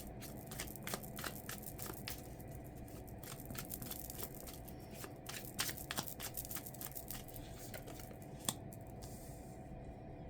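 Tarot cards being shuffled and handled: a run of quick papery snaps and rustles that stops about nine seconds in.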